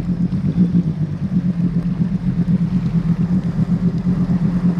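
Mercury 9.8 hp two-stroke outboard motor running steadily under way at a constant throttle, with an even drone.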